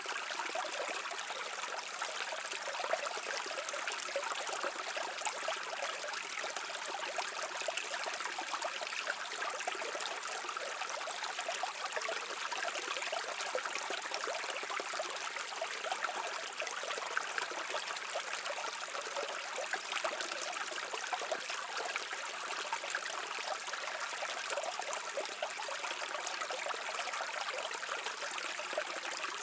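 Mountain stream flowing over rocks: a steady, unbroken rush of water with fine trickling and splashing.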